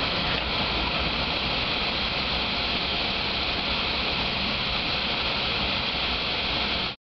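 Harvest machinery running steadily, a loud, even rushing noise that cuts off suddenly near the end.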